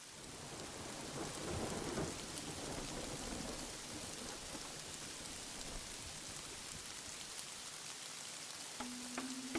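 Steady heavy rain fading in, with a low rumble of thunder a second or two in. Near the end a few sustained musical notes begin over the rain.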